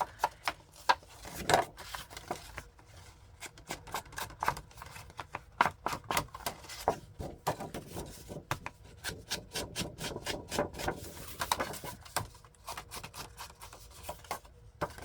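Ink being dabbed and rubbed onto the edges of paper card stock by hand: an irregular run of quick taps and short scraping strokes.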